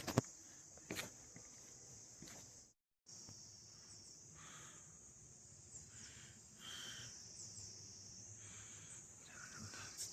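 A chorus of insects trilling in a steady, high-pitched band, with a few faint clicks in the first second. The sound cuts out completely for a moment just under three seconds in.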